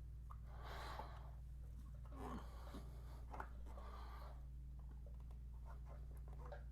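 Faint rubbing and handling sounds, three soft swishes and a few light clicks, over a steady low hum: hands working petroleum jelly onto motorcycle battery terminals.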